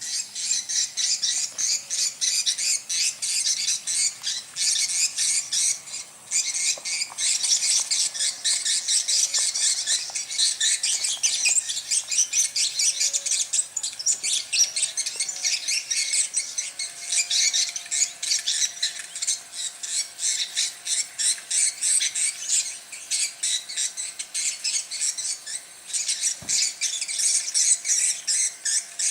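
A bird-call recording being played back as a test: dense, rapid high chirping and twittering of many birds, with no pause.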